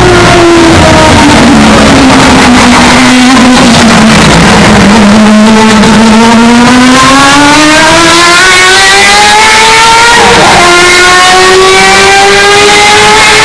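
Historic Formula 1 race car engine, heavily over-amplified and clipped. Its revs sink for about five seconds, then climb steadily as the car accelerates, with a short break about ten seconds in where a gear change drops the pitch before it rises again.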